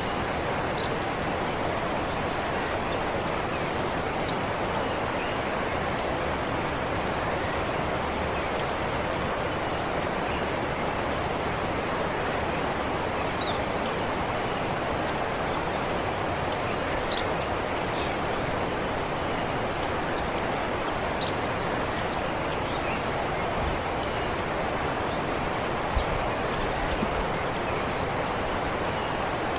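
A forest stream flowing steadily, with small birds chirping in many short, high, quick notes above it and a couple of brief faint knocks.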